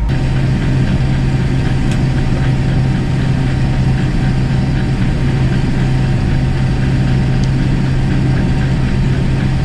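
Case IH 1660 combine running steadily under harvest load, with an even engine drone and a constant low hum.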